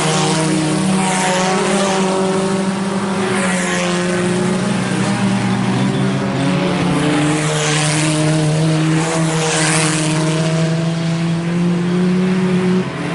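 A pack of IMCA Sport Compact race cars, small four-cylinder engines held at high revs, running laps of a dirt oval. The steady engine drone swells four times as cars pass close by.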